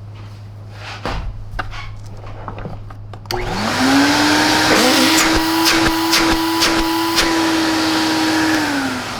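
A TriStar EXL canister vacuum cleaner is switched on after a few clicks and knocks. Its motor spins up with a rising whine to a steady run, is switched off near the end and winds down. The motor, though rusted, sounds all right.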